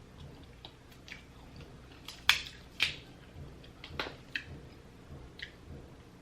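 Close-up mukbang eating sounds from a seafood boil: chewing with a string of sharp crackles and clicks, the two loudest about two and a half seconds in.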